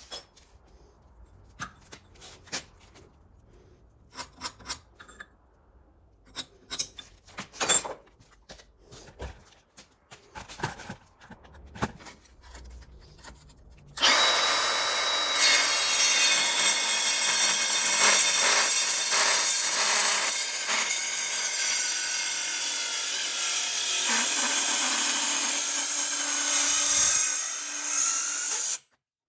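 Scattered light clicks and knocks of parts being handled, then about halfway in a power cutting tool starts up and cuts through metal steadily for about fifteen seconds before stopping abruptly.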